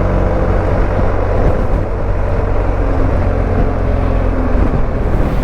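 Motorcycle on the move: engine running at a steady pace under a rush of wind noise.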